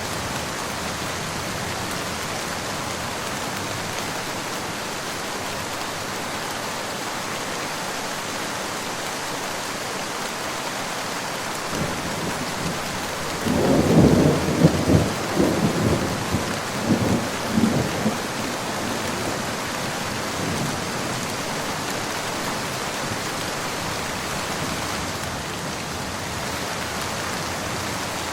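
Steady rain falling, with a thunderclap about halfway through: a sudden loud crack that rolls and rumbles in several surges for four or five seconds, then fades back into the rain.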